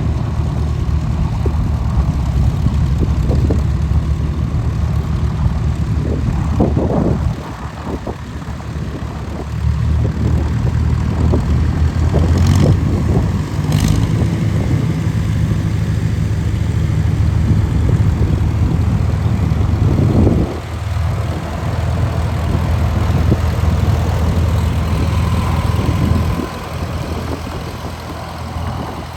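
McCormick Super W6 Standard tractor's four-cylinder engine running, a steady low drone whose level drops and picks up again a few times as the engine speed changes.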